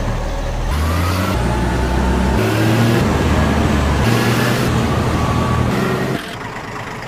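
Engine sound effect of a tractor running, dubbed onto a toy tractor. It is a steady low engine note in spliced sections whose pitch jumps every second or so, and it drops in level about six seconds in.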